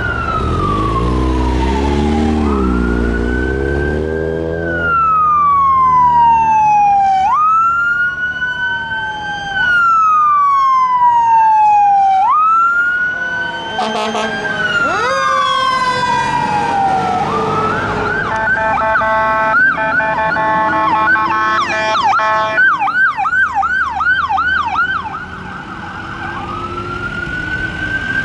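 Fire engine's electronic siren on wail, each sweep rising quickly and falling slowly about every two and a half seconds. Near the middle it switches to a steady blaring horn and then a fast yelp. The truck's engine rumbles low under the siren at the start.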